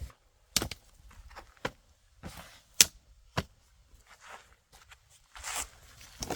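Hard objects being handled: four or five sharp, irregular clacks and knocks, one about three seconds in the loudest, with soft rustling between them and a longer rustle near the end.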